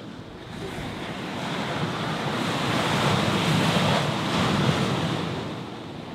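Ocean surf with wind: a wave's rush builds up to a peak about three to four seconds in and then falls away.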